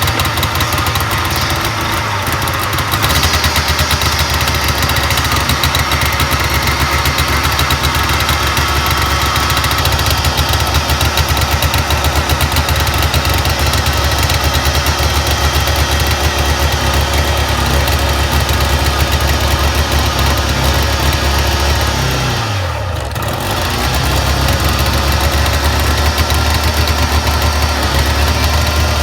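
Vintage Ski-Doo TNT 340's two-stroke Rotax 340 engine running steadily after a cold start at −32 °C. It picks up slightly about three seconds in, sags briefly near the end with the pitch dropping, then comes back up.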